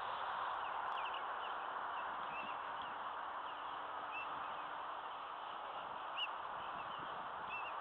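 Small birds chirping in short repeated calls over a steady rushing noise.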